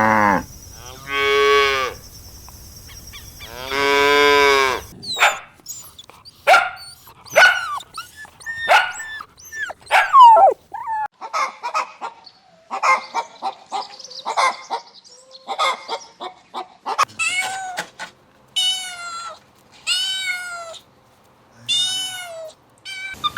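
Cattle mooing: three long, deep moos in the first five seconds. A quick run of short, sharp, higher-pitched animal calls follows, then several half-second arching calls from another animal near the end.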